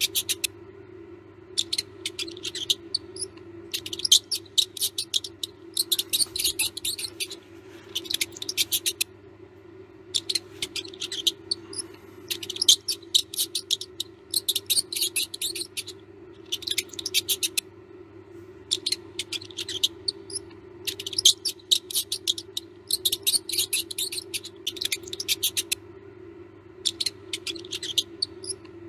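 Mouse squeaking in rapid runs of short, high chirps, each run lasting about a second with pauses between, over a steady low hum.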